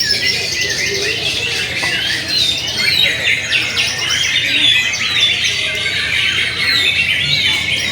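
Many white-rumped shamas (murai batu) singing at once in a songbird contest, making a dense, overlapping chorus of high whistled phrases and rapid trills.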